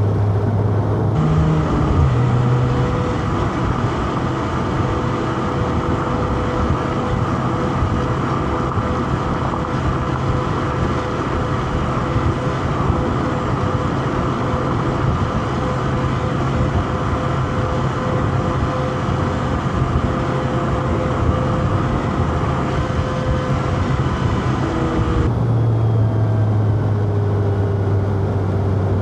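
Four-cylinder car engine running at a fairly steady speed under way, over road and tyre noise. The sound changes abruptly about a second in and again near the end.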